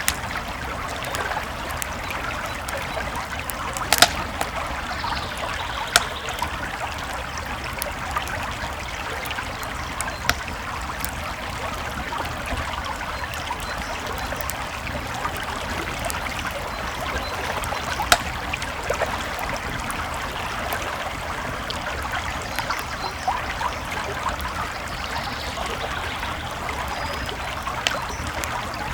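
Creek water trickling and babbling steadily, with a campfire crackling over it and a few sharp pops from the fire scattered through, the loudest about four, six and eighteen seconds in.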